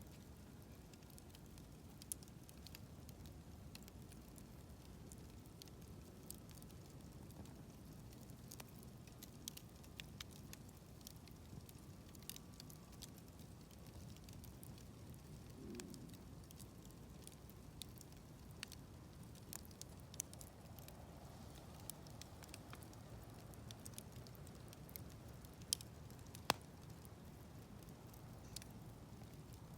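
Wood campfire crackling softly: scattered small pops and ticks over a faint low steady rumble, with a couple of sharper snaps near the end.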